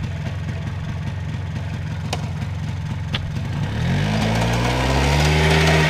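Pickup truck engine idling, then revving up about four seconds in as the truck pulls away, with two sharp clicks before it.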